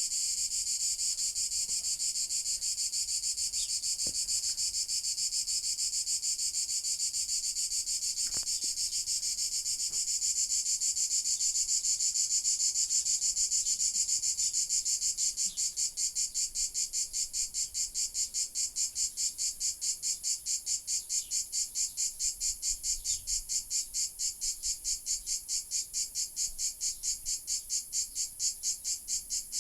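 A cicada calling: a continuous high buzz that, about halfway through, breaks into a fast pulsed rattle of roughly four pulses a second.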